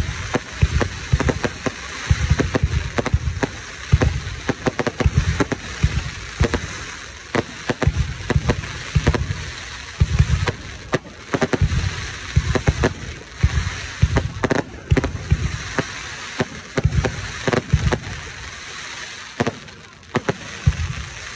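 Aerial fireworks display: a rapid, continuous run of bangs, several a second, from shells bursting overhead, with crackling between them.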